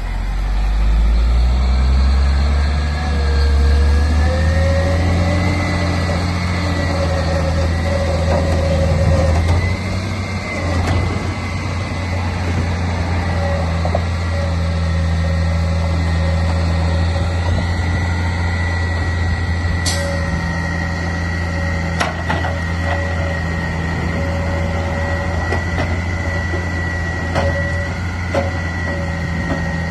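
Garbage truck's engine running steadily with a low hum and a high steady whine over it, and a few sharp knocks in the second half.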